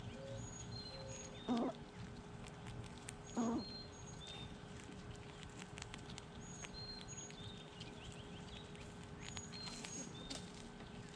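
Birds calling outdoors: short, high whistled notes repeating in pairs throughout, and two brief louder, lower calls less than two seconds apart in the first few seconds. Faint scattered ticks and scratches run underneath.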